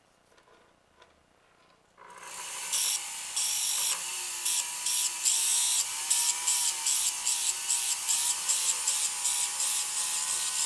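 Rotary tool spinning a medium abrasive disc, with a steady, slightly wavering whine, grinding down the solder bump at a necklace's pin joint in repeated short scratchy passes. It starts about two seconds in, after a few faint clicks.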